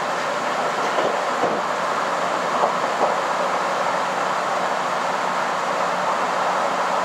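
Running noise of a KiHa 261 series diesel limited express, heard from inside the carriage: a steady rumble of wheels and engine, with a few light knocks between about one and three seconds in.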